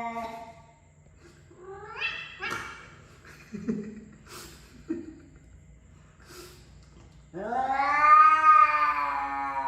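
Cat yowling: a long drawn-out yowl fades out near the start, a few short rising cries follow around two seconds in, and about seven seconds in another long, loud yowl begins that wavers in pitch.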